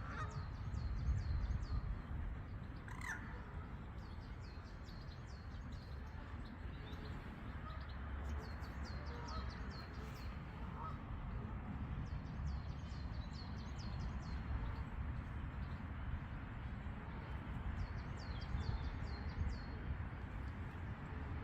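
Birds calling: repeated runs of quick, high chirps, with a few lower, louder calls, over a steady low rumble.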